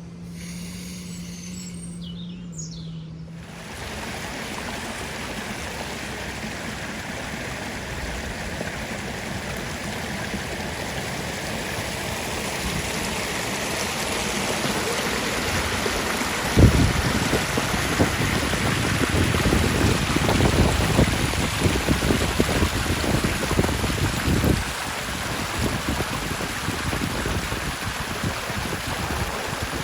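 Stream water running close by, an even rushing that grows louder. Through the middle of it, wind buffets the microphone in low gusts.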